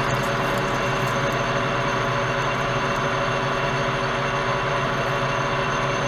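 Metal lathe running steadily while parting off a workpiece: a constant machine hum with several held tones over a steady rush of noise.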